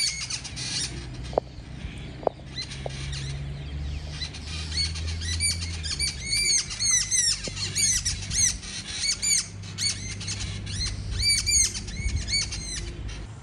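Small birds chirping: short sharp notes repeated in quick runs of several, most of them in the second half. A low steady rumble runs underneath.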